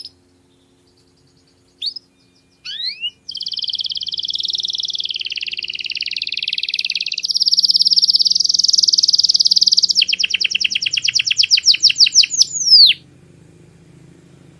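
Domestic canary singing: a few short rising chirps, then a long rapid rolling trill lasting about seven seconds, which breaks into a run of quick separate sweeping notes and ends on one falling note.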